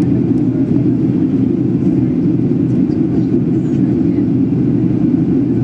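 Steady in-flight cabin drone of a Boeing 737-800, the noise of its CFM56 jet engines and the airflow over the fuselage, heard from a window seat. It is a low, even rumble with no change in pitch or loudness.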